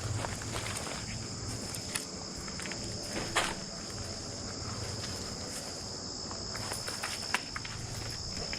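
Footsteps on ground outdoors, with scattered short crunches and knocks, the sharpest a little past the middle, over a steady high-pitched trilling of insects.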